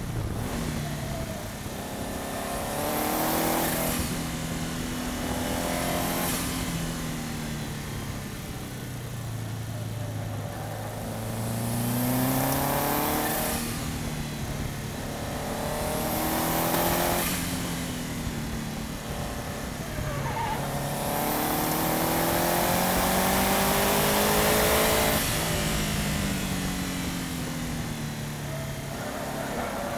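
Subaru Impreza's flat-four engine accelerating hard through the gears on a race track, its pitch climbing and dropping sharply at each upshift about five times, with a slower fall in pitch once while it slows. A high whine rises with each pull, over steady wind and tyre noise on a bumper-mounted camera.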